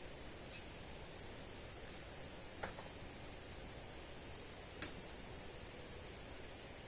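Small bird's high-pitched chirps: a single chirp about two seconds in, a run of quick descending chirps around four to five seconds in, and a sharp chirp near the end, over a steady hiss.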